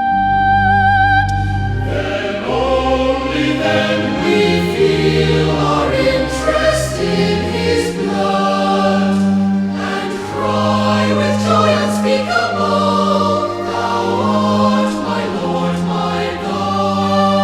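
A choir singing a hymn in harmony over sustained low notes. It enters about two seconds in, after a single held note with vibrato stops.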